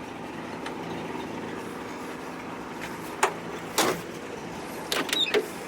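Four short clunks and creaks from the door and window hardware of a 1958 Rambler wagon being worked: one about three seconds in, one near four seconds, and two close together near the end, over a steady low hum.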